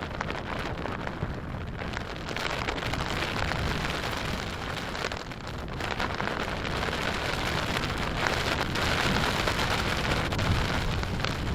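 Heavy rain falling in a squall-line thunderstorm, with a low rumble of gusting wind. The rain swells about two seconds in and is loudest near the end.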